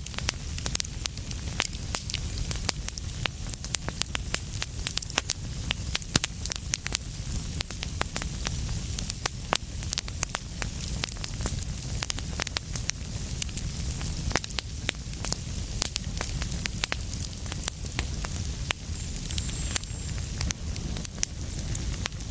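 Fireplace fire crackling: many irregular pops and snaps over a steady low rumble of the flames.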